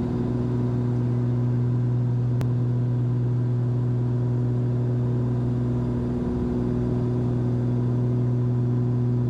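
Steady drone of a Cessna 340's twin turbocharged six-cylinder piston engines and propellers, heard from inside the cabin during a climb at constant power. A faint click comes about two and a half seconds in.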